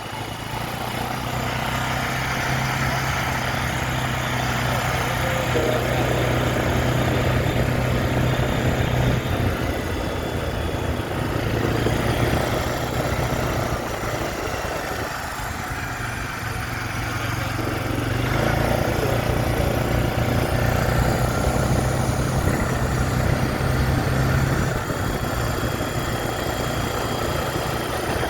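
A vehicle engine running steadily, with a low hum and a rushing noise over it that swells and eases.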